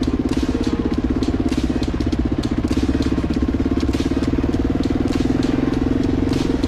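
2004 Kawasaki KLR 650's single-cylinder engine running steadily under way, with scattered sharp clicks and knocks over it.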